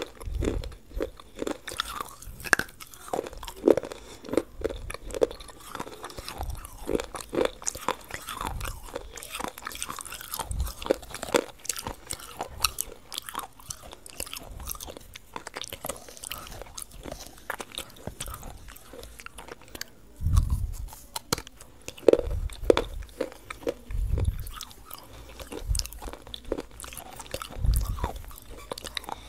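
Close-miked crunching and chewing as a person bites into and chews brittle, crunchy bars, with crisp crunches at an irregular pace. Several heavier bites come in the last third.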